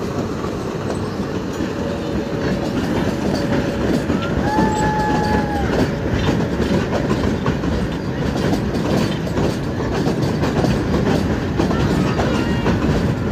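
Metre-gauge diesel-hauled passenger train crossing a steel trestle bridge: a steady rumble of wheels, with quick clickety-clack clicks over the rail joints. A brief high tone sounds about halfway through.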